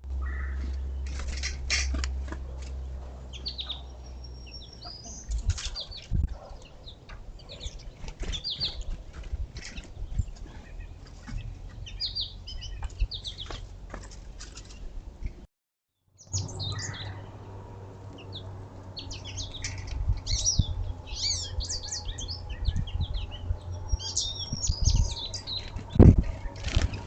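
Small songbirds at a feeder chirping and twittering in short high calls, with repeated wing flutters and light clicks and knocks from birds landing and pecking. A low hum runs underneath. The sound cuts out for a moment about halfway through, and a sharper knock comes near the end.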